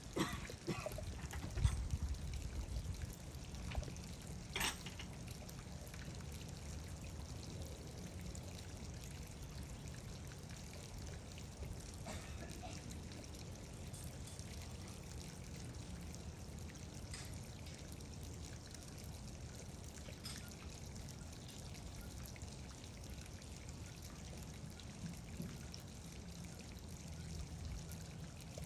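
Water pouring and trickling steadily, with a few knocks in the first seconds, one sharper knock about five seconds in.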